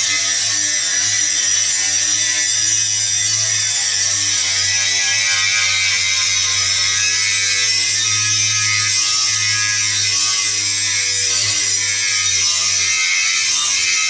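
Angle grinder running continuously on steel: a loud, steady grinding hiss over a lower motor whine that wavers slightly in pitch.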